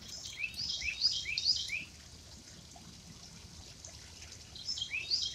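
A bird calling: a quick run of about four short, rising chirps, repeated near the end, over faint splashing of koi at the water surface.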